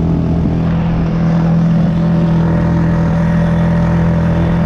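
Motorbike engine running at a steady, unchanging pitch while riding along.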